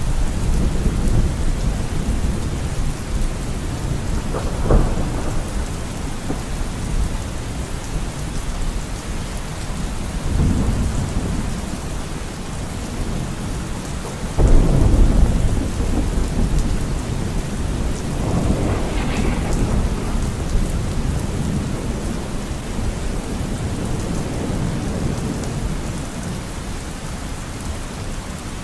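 Steady rain falling, with rolling thunder rumbling through it. A sharp peal comes about five seconds in and the loudest clap at about fifteen seconds, then a long rumble fades.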